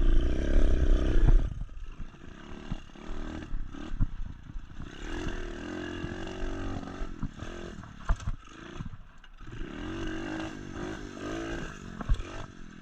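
SSR 125 pit bike's single-cylinder four-stroke engine revving up and down while riding, with scattered knocks and rattles from the bike over rough ground. Heavy wind buffeting on the microphone for the first second and a half.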